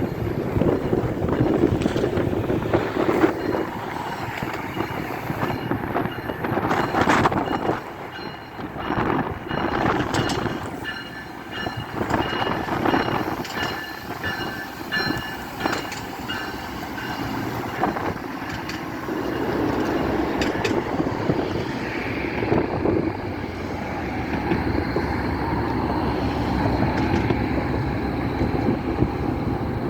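A train rolling past, wheels rumbling on the rails with repeated clicks over rail joints and faint high wheel squeal.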